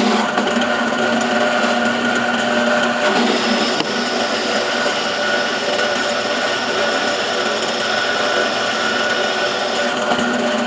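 Electric power tool motor running steadily with a constant whine, a small shift in its tone about three seconds in.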